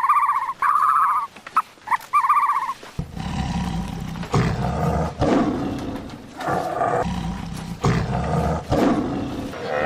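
Short, high whining calls repeated about twice a second. Then, from about three seconds in, a large animal gives low, rough growling roars, each about a second long with short pauses between them.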